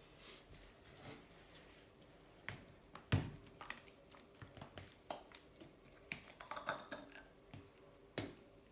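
Scattered light knocks and clicks of small objects being handled and set down on a workbench, the loudest about three seconds in, with a cluster of small rustling clicks around two-thirds through.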